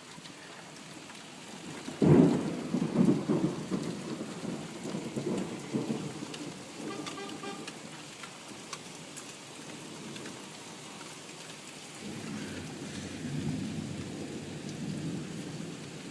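Steady rain with a sudden loud thunderclap about two seconds in that rumbles on and fades over several seconds, then a second, softer roll of thunder near the end.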